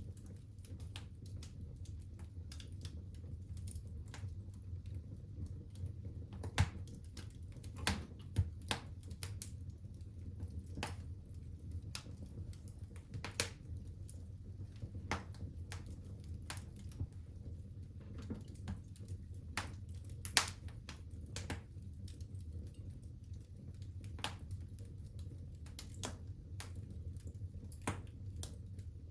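Fire crackling in a fireplace: irregular sharp pops and snaps, a few of them markedly louder, over a steady low hum.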